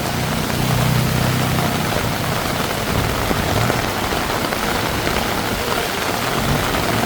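Heavy tropical rain falling steadily and hard, with the low hum of a passing vehicle's engine underneath, loudest about a second in.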